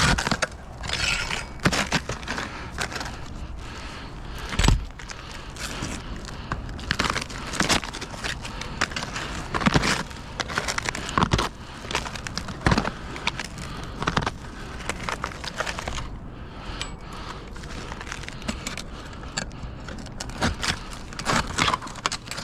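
Irregular clinks, clicks and scraping of small hard objects being handled, with sharper knocks about 5, 10, 11 and 13 seconds in.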